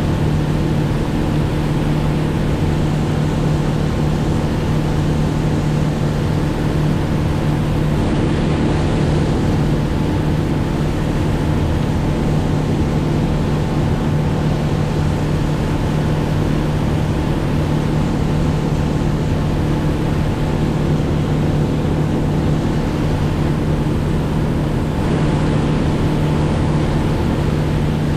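An engine running at a steady speed: a constant drone with a strong low hum and its overtones, with no change in pitch.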